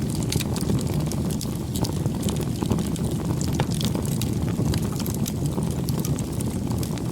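Campfire burning: a steady low rush of flames with frequent small crackles and pops of burning wood.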